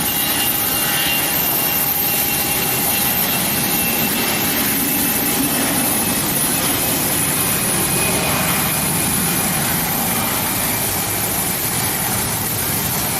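Airbus A320 jet engines at takeoff power: a steady, loud jet noise with a thin whine running through it.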